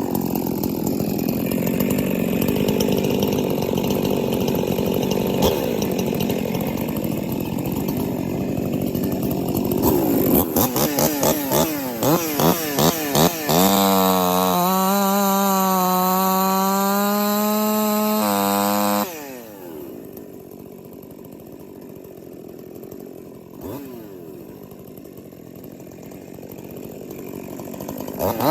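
Two-stroke 50 cc chainsaw cutting wood at high revs for about ten seconds, then revved in a row of quick throttle blips. It is held at full revs for about five seconds, then drops abruptly to a much quieter idle and is revved up again near the end.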